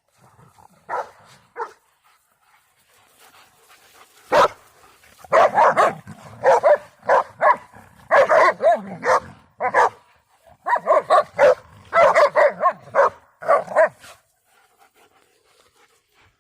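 Several dogs barking and yelping in quick runs as they scuffle in a rough pack play-fight. Two short barks come about a second in, then a near-continuous stretch of barking from about four and a half seconds to fourteen, which then dies away.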